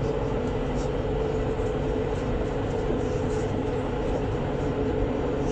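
Alstom Citadis 402 tram running at a steady speed, heard from inside: a constant rumble of wheels on rail with a steady whine from the electric traction drive.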